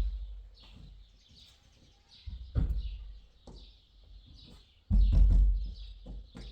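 Small birds chirping over and over, with three dull, heavy thumps about two and a half seconds apart, the last one longer.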